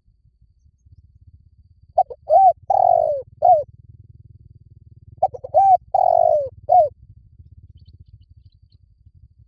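Spotted dove cooing: two phrases of four or five coo notes each, about three seconds apart, over a faint low hum.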